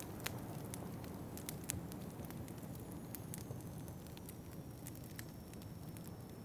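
Wood fire crackling in a fireplace: irregular sharp pops and snaps over a steady low rush, with one sharper pop about a second and a half in.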